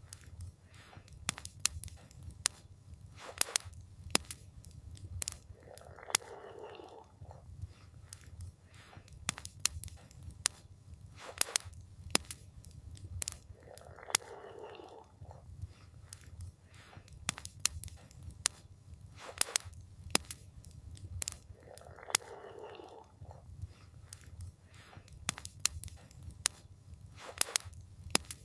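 Wood campfire crackling: irregular sharp pops and snaps over a low steady rumble, with a soft rushing swell about every eight seconds.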